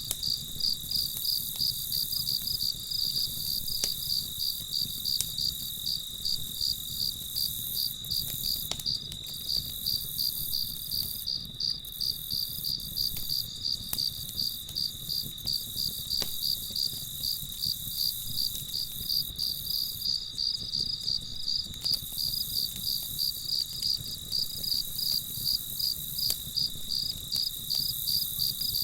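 Crickets chirping in a steady, even rhythm, with a few faint pops from a crackling campfire.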